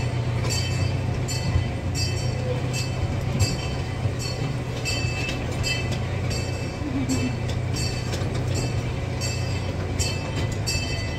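Miniature amusement-park ride train running, heard from on board: a steady low engine hum with a light, regular clinking about every half second to second.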